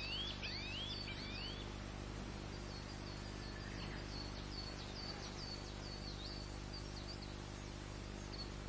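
Small birds chirping: a run of short rising calls in the first second or so, then quicker, higher chirps through the rest, over a steady low hum.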